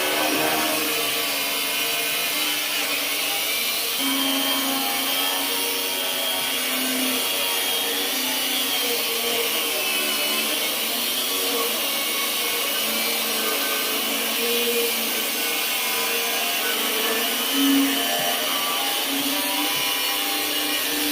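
Angle grinder running and grinding steadily, a hiss with a pitch that wavers up and down; one short louder swell about three-quarters of the way through.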